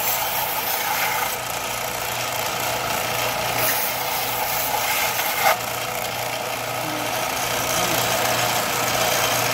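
Belt grinder running steadily with a constant hum, with one short sharp click about five and a half seconds in.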